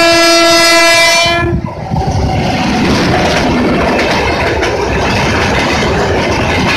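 Electric locomotive horn sounding one long blast that ends about a second and a half in. Then the rush and clickety-clack of the Rajdhani Express coaches passing at speed.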